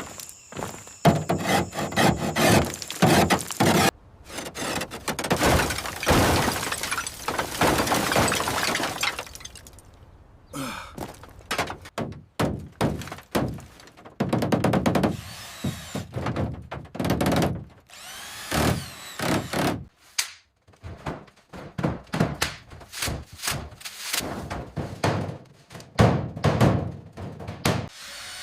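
A rapid run of construction work sounds: many thuds and knocks and things breaking, with denser stretches of tool noise between the strikes.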